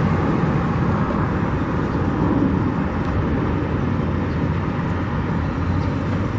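Steady rumble of vehicle noise, with a low hum throughout.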